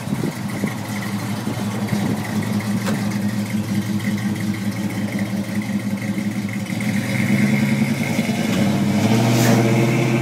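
1965 Chevrolet Chevelle's engine running with a low, steady rumble as the car pulls out and drives off, getting louder and rising in pitch near the end as it accelerates.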